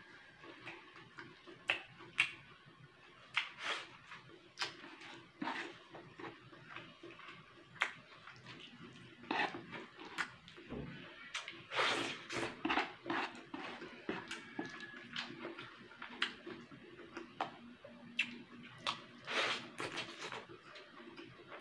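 Close-up eating sounds of a person chewing rice and ginataang papaya: irregular wet smacks and clicks of the mouth, with fingers gathering rice off a wooden board.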